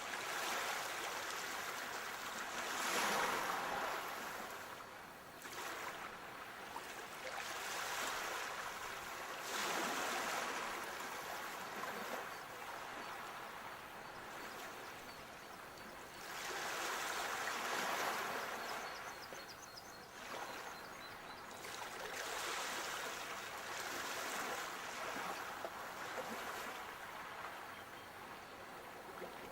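Sea waves breaking and washing up the shore, the surf rising and falling in slow swells every few seconds, loudest about three seconds in and again a little past halfway.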